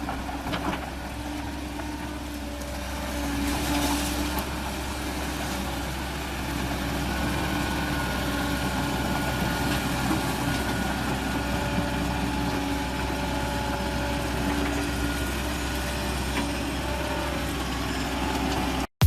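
A heavy vehicle's engine running steadily, with a faint held whine over the low hum.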